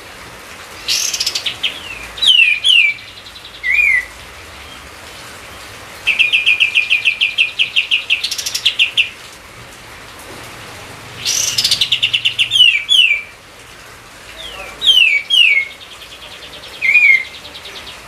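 A songbird singing in repeated phrases, four in all: each a fast trill followed by a few short down-slurred whistles, over a steady background hiss.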